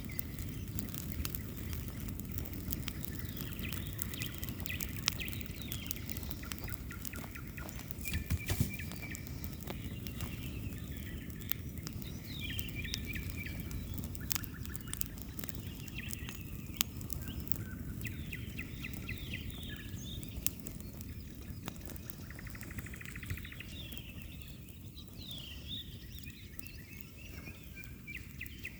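Bonfire crackling, with frequent sharp pops and a louder cluster of cracks about eight seconds in, while songbirds sing in short chirping phrases over it.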